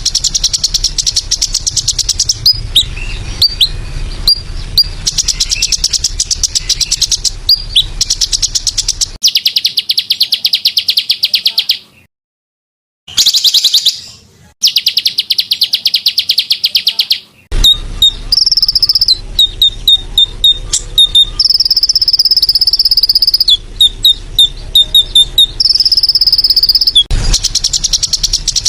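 Rapid, high-pitched buzzing trills and sharp chirps of small songbirds, spliced together as a birdsong-training (masteran) track. There is a brief dead cut to silence about twelve seconds in.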